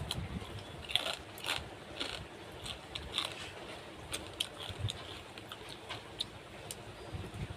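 Someone biting and chewing crunchy food: irregular crunches and clicks, about one or two a second.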